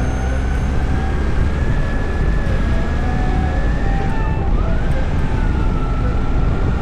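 Strong wind buffeting the microphone of a Honda CB1100 motorcycle riding at speed, with the motorcycle running underneath as a dense, steady rumble. A thin, wavering tone rises and falls slowly above it.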